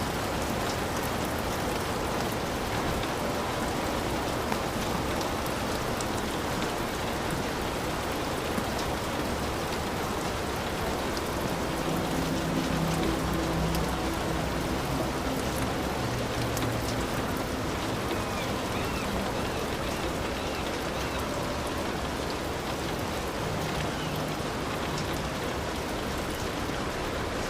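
Heavy rain falling steadily, a dense even hiss of drops. From about twelve seconds in, a few faint low steady tones sit under the rain.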